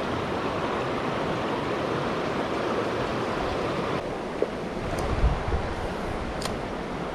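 Steady rush of creek water running over rocks, with a brief low thump about five seconds in.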